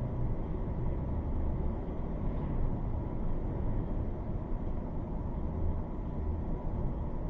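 Thunderstorm: a steady low rumble that rises and falls slightly, with no distinct thunderclap.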